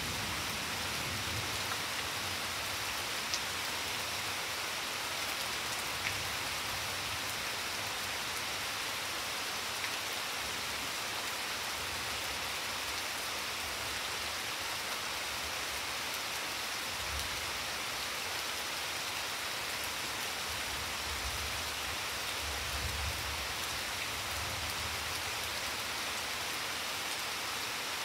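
Steady rain falling on garden plants, lawn and a flagstone path: an even hiss, with the odd single louder drop.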